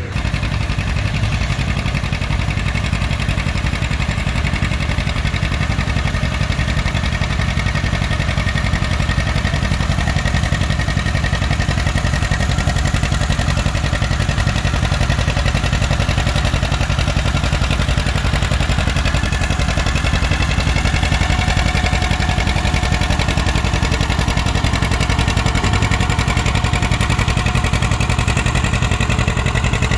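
Farm tractor engine running steadily, with a faint rising whine over the last third.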